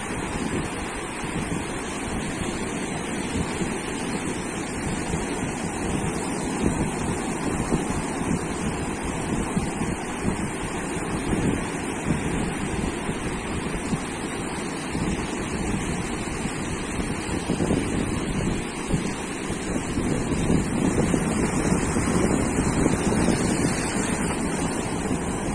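Surf breaking on a sandy beach in a continuous wash, with wind buffeting the microphone. The waves grow louder about twenty seconds in.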